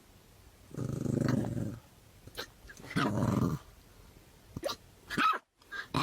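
A dog growling in two long rumbles, followed by a few short barks near the end.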